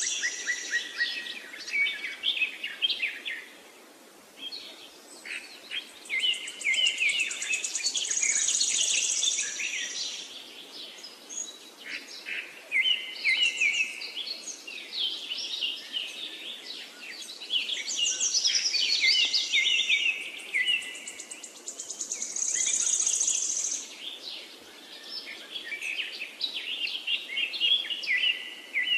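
Songbirds chirping and singing in a continuous chorus of short calls, with a higher trill breaking in every few seconds.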